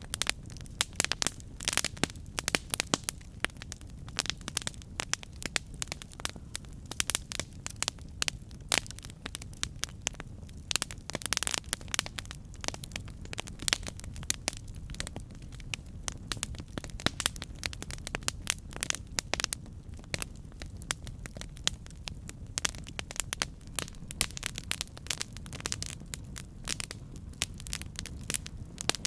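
Campfire burning, wood crackling and popping with frequent irregular sharp snaps over a steady low rumble of the flames.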